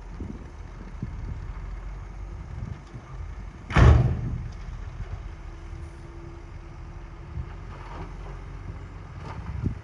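Heavy earthmoving machinery's diesel engine running steadily, with one loud crash about four seconds in that dies away over a second, and a smaller knock near the end.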